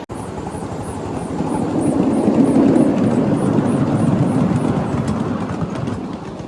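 A 7½-inch gauge live steam train running on its track, a steady rumble that grows louder toward the middle and then eases off, with a faint, even ticking about three times a second.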